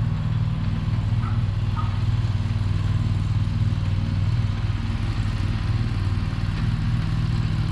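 Chinese-made mini skid steer's engine running steadily at a low idle.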